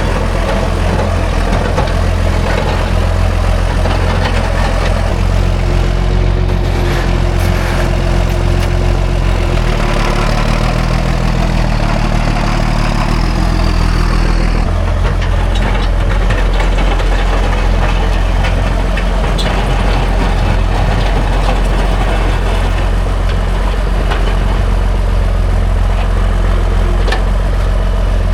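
Classic John Deere tractor engine idling steadily just after a cold start, its engine warmed beforehand by being plugged in for a few hours.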